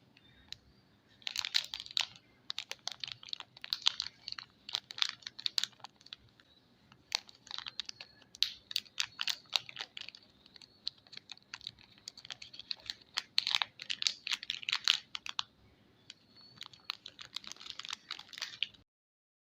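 Soap packaging being handled and opened by hand: bursts of crisp crackling and tapping, in clusters about a second long with short pauses between. The sound stops shortly before the end.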